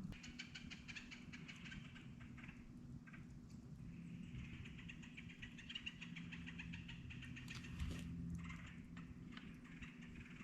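Animal calls: rapid trills of evenly spaced clicking notes, two long runs of several seconds each, over a low steady hum.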